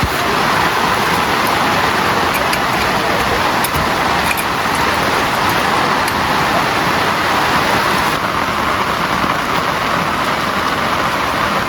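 Heavy rain falling steadily: a dense, even hiss of downpour with faint scattered drop ticks.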